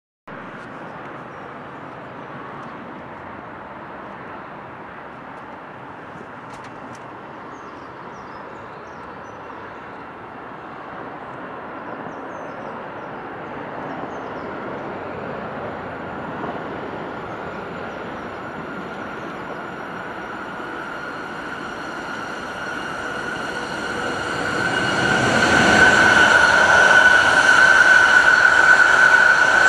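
A train approaching along the line, its rumble growing slowly louder, then loud from about 25 seconds in as it draws close, with a steady high ringing tone from the wheels or drive.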